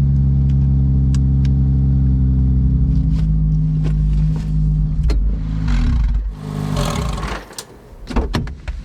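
Porsche 996 911 Turbo's twin-turbo flat-six, fitted with an aftermarket titanium X-pipe exhaust, running with a steady low drone that stops about six seconds in. A short hiss and a few sharp clicks follow.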